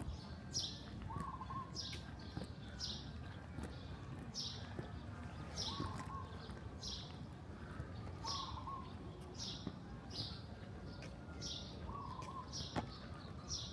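A small bird calling over and over, a short falling chirp about once a second, with a lower note now and then, over a steady low rumble.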